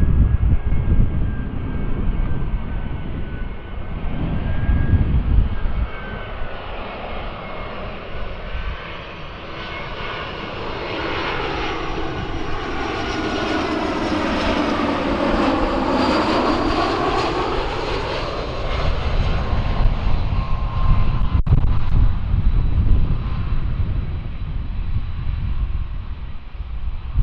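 Jet airliner's engines passing by, growing louder to a peak about halfway through and then fading, with sweeping shifts in tone as it goes past. Gusts of wind rumble on the microphone at the start and again near the end.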